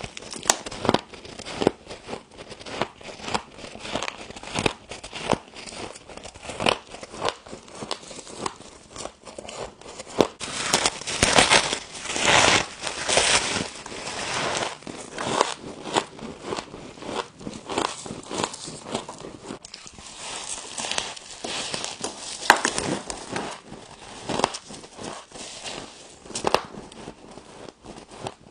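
Close-up crunching of frost being bitten and chewed: many irregular crisp crunches and crackles, with a denser, louder run of crunching about halfway through.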